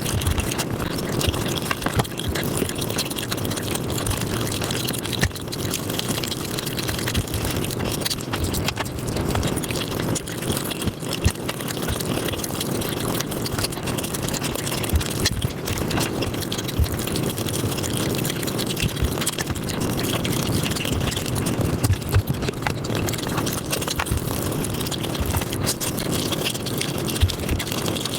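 ASMR eating sounds of mutton biryani and curry played back sped up: a dense, unbroken stream of wet chewing and mouth clicks with a few louder smacks.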